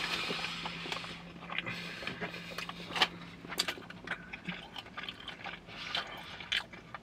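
Close-up chewing and biting of a grilled chicken breakfast sandwich: irregular wet mouth clicks and smacks, with a faint steady hum under the first half.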